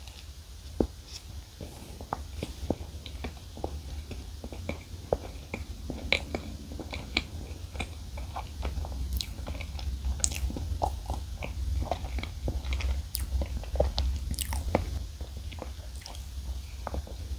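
Close-miked chewing of a soft, marshmallow-filled watermelon-flavoured Choco Pie: many small moist mouth clicks and crackles over a steady low hum. Near the end comes a bite into a chocolate-coated original Choco Pie.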